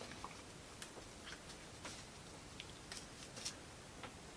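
Faint, scattered light clicks and taps of small laser-cut plywood model parts being handled, about a half-dozen over a few seconds.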